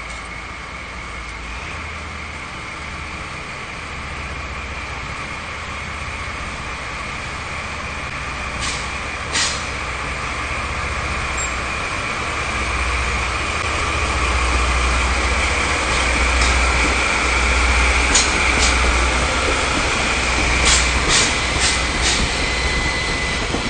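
DD51 diesel locomotive's twin engines running under load as the train pulls out, a low rumble that grows steadily louder, with a steady high whine and several sharp metallic clicks in the second half.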